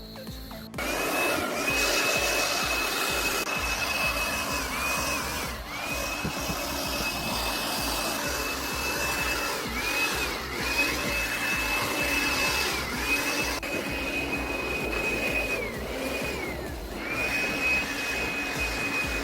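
A high-speed electric motor running, its whine dipping briefly in pitch and recovering about five times, as if loaded and released.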